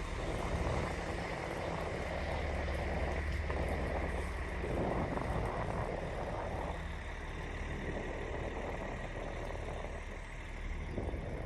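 Tour coach's engine running nearby with a steady low hum that fades after about seven seconds. A louder rush of noise swells in about five seconds in.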